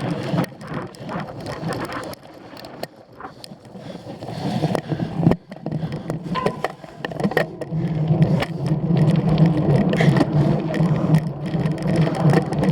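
Bicycle rolling over rough ground, its frame and parts rattling with many small clicks, and a steady low hum that grows louder in the second half.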